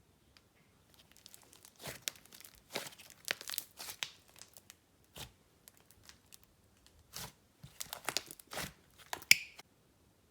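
Swirled icing and clay slime being squished and stretched by hand, giving irregular clusters of soft crackling and popping clicks, with the loudest pop near the end.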